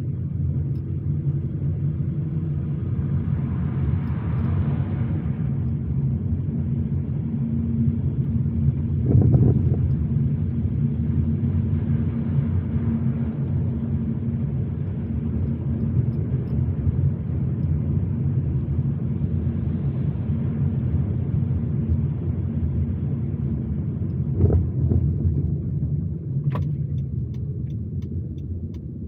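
Car driving: a steady low rumble of engine and tyres on the road, with two brief thumps about nine and about twenty-four seconds in.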